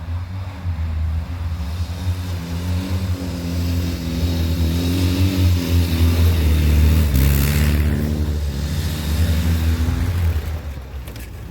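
Ural motorcycle's flat-twin engine running, its pitch rising and falling a little, and easing off near the end.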